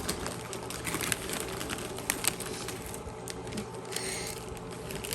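Scattered sharp crackles and clicks of a dill pickle jalapeño potato chip being bitten and crunched, with a pair of louder cracks about two seconds in.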